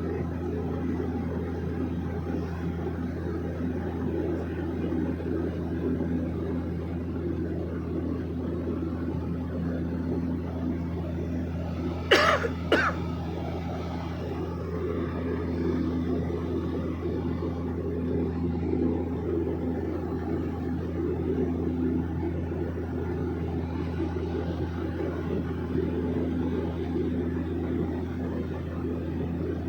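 Steady drone of a small airplane's engine and propeller with a low even hum. About twelve seconds in, a person coughs twice, briefly.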